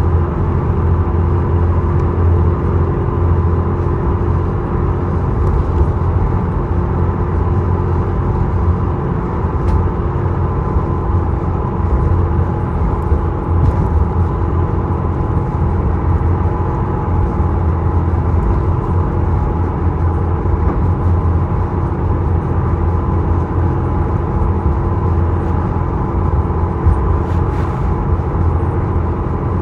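The Isokaze ship's engines droning steadily: a constant low hum with a few steady tones above it.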